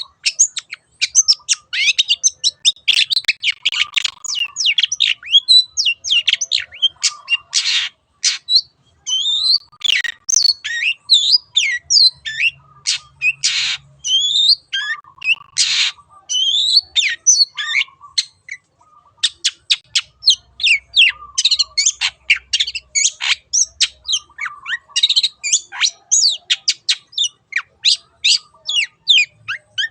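Long-tailed shrike (cendet) singing a fast, almost continuous song of quick chirps and whistled sweeps. A few harsh rasping notes break in about a third and halfway through.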